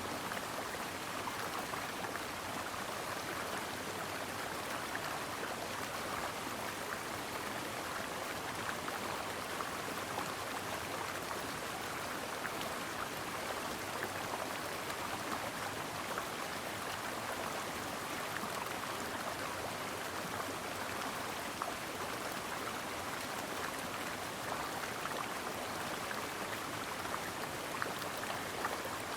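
Mountain stream flowing steadily over rocks: an even rush of water, brightest in the middle-high range, with fine splashes and trickles throughout.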